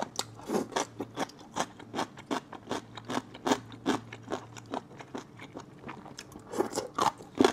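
Close-miked chewing of crunchy food, a mouthful of green chili strips from a cold spiced platter: crisp, irregular crunches, two or three a second.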